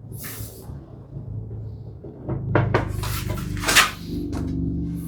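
Background music playing over hand-tool work on a hardwood cabinet case: a few sharp knocks of wood about two seconds in, then a longer hissing stroke.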